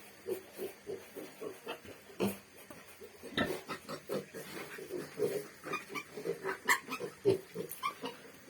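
Pig grunting in short, frequent grunts, several a second. They come thicker and louder after about three seconds, with a few sharper, higher sounds among them.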